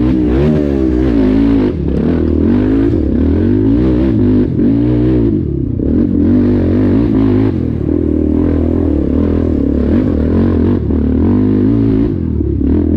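ATV engine running and revving, its pitch rising and falling again and again as the throttle is worked, over a steady low rumble.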